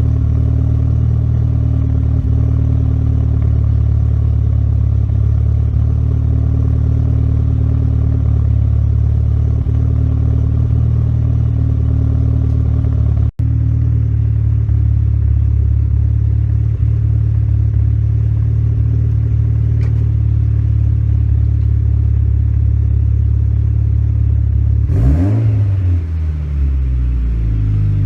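2004 Mitsubishi Lancer Evolution's turbocharged 4G63 inline-four idling steadily through an Espelir JGT500 aftermarket exhaust. The sound drops out for an instant near the middle. About 25 seconds in, a quick blip of the throttle sends the revs up and back down to idle.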